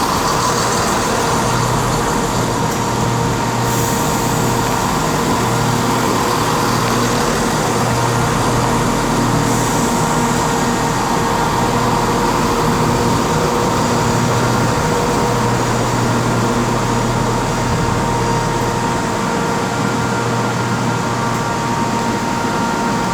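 A train standing at a station platform, running with a steady engine hum and a faint steady whine. Short hisses of air are heard about four seconds in and again around ten seconds in.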